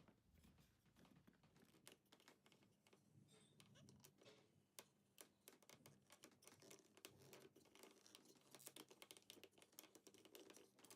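Near silence with faint, scattered plastic clicks and handling of a Play-Doh hair salon playset as its chair is turned to push dough hair out through the holes.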